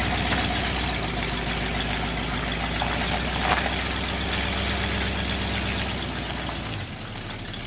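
Chevrolet 235 inline-six engine of a 1946 two-ton cab-over truck turning over with a steady low drone; about seven seconds in the sound changes and drops a little in level.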